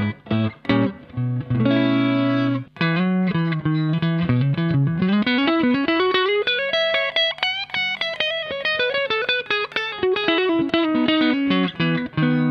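Fender Stratocaster electric guitar played through a Fender Hot Rod Deluxe IV 40-watt tube combo amp with a Celestion Type A speaker, on its clean channel. A few chords and short stabs, then a quick run of single notes that climbs up and comes back down, ending on a ringing chord.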